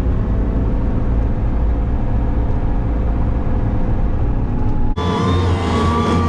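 Tractor engine running steadily with a low rumble. About five seconds in it cuts off abruptly and a different sound with several steady, held tones takes over.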